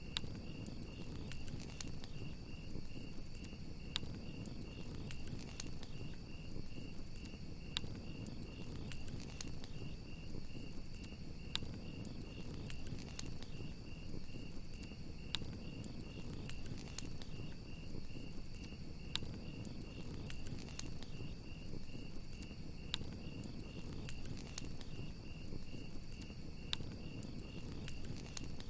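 Crickets trilling in a steady, rapidly pulsing chirp alongside a campfire crackling with sharp, scattered pops over a low rush of burning wood.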